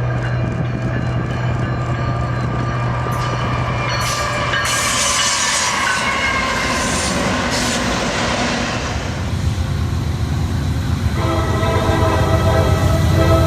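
Passing train: a steady low engine drone, then louder wheel and rail noise with some high squealing tones. About two and a half seconds before the end, a locomotive's multi-chime air horn starts sounding a held chord.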